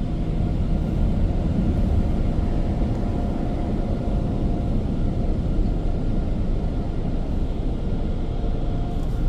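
Proto-Vest car wash dryer blowers running, a steady rush of air against the car with a faint steady whine in it.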